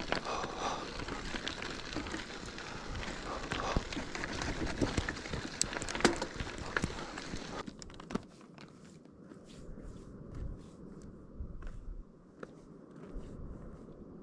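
Footsteps crunching on a rough mountain road, with many small clicks and crackles over a steady rushing noise that drops away about eight seconds in, leaving fainter, scattered crunches.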